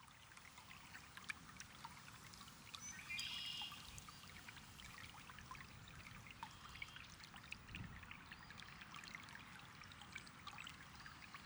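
Faint trickling, bubbling water with many small drips, and a short bird call about three seconds in.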